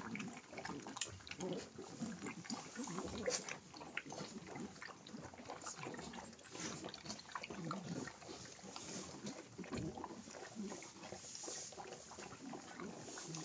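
Animals close by making a stream of short, irregular noises.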